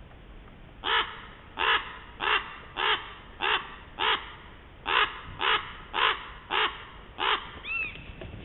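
A crow cawing: a steady series of eleven short, harsh caws, roughly one and a half a second, with a brief whistled note just after the last caw.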